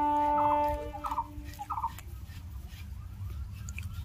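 Domestic fowl calling: three short gobble-like rattles over a steady held tone that stops a little under two seconds in, with a low rumble throughout.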